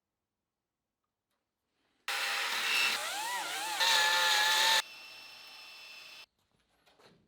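Handheld electric power tool running: its motor whine rises and wavers, then holds steady before cutting off suddenly, followed by a quieter steady running noise for about another second and a half.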